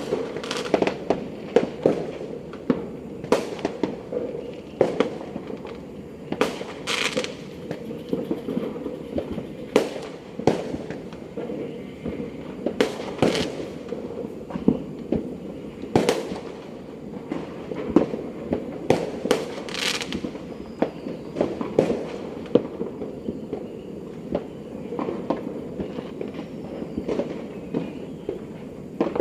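New Year's fireworks and firecrackers going off repeatedly at irregular intervals, a string of sharp bangs and pops, some nearer and louder than others, over a steady background rumble.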